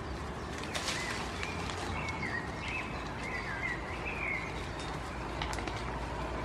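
A songbird singing a warbling, rising-and-falling phrase for a few seconds over steady low background noise, with a few sharp clicks.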